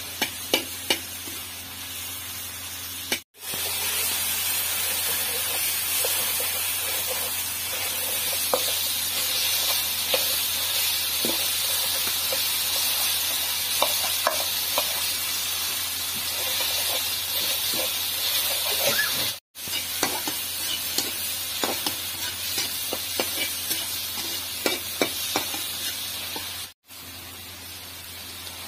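Onions and tomatoes sizzling in a hot iron kadhai, with the scattered clicks and scrapes of a flat metal spatula stirring against the pan. The sound cuts out briefly three times.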